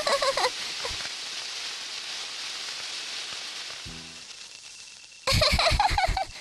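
A handheld firework fizzing with a steady hiss that slowly fades away. A brief low tone comes about four seconds in, and a louder passage with a pulsing beat starts about a second before the end.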